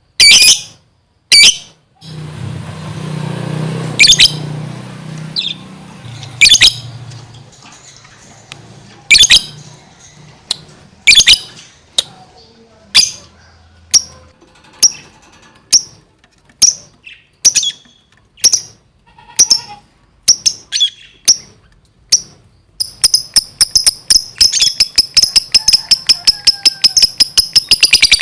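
Lovebird giving sharp, shrill chirps, spaced a second or two apart at first and about one a second by the middle. Near the end they run together into a fast chatter of several chirps a second: the lively, continuous 'gacor' song.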